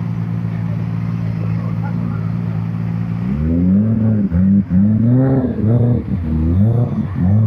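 A car engine idling steadily, then revved in a quick series of blips starting about three seconds in, each rising and falling in pitch.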